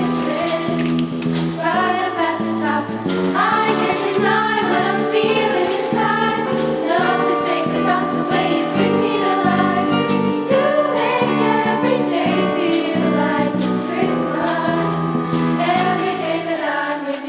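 Young voices singing as a choir with accompaniment over a steady beat.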